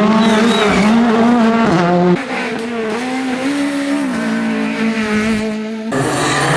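Rally car engine running hard, its pitch stepping up and down. The level drops about two seconds in, and the sound changes abruptly near the end.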